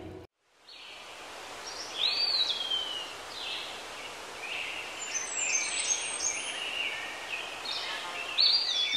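Birds calling over a steady outdoor hiss. A clear swooping call, rising and then falling, comes about two seconds in, followed by many short chirps.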